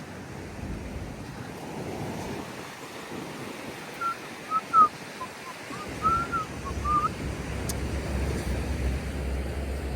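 Waves washing ashore with wind buffeting the microphone, and a quick run of short high chirps about halfway through.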